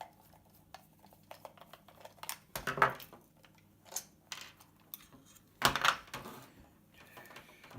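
Close handling noise as a mains cable is knotted and worked against the plastic computer case: scattered small clicks and light clattering, louder about three seconds in and again near six seconds.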